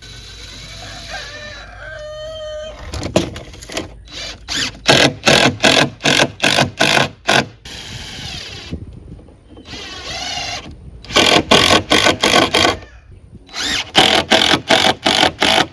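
Cordless drill driving screws through clamped boards, running in several bursts, with stretches of evenly spaced pulses at about three a second.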